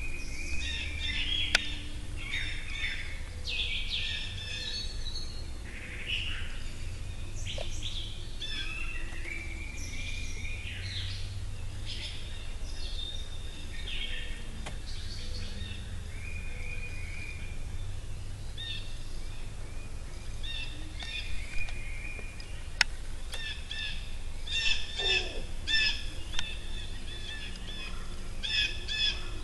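Wild songbirds calling and singing: many short chirps and warbled phrases overlapping throughout, with a run of rapid repeated chirps near the end, over a steady low rumble.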